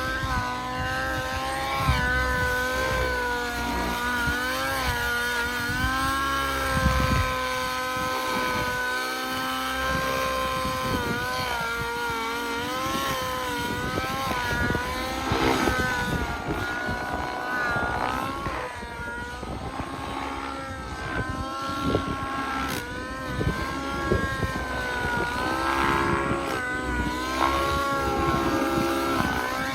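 XLPower Specter Nitro RC helicopter in flight, its nitro glow engine and rotor whine rising and falling in pitch as it manoeuvres, over a low buffeting rumble.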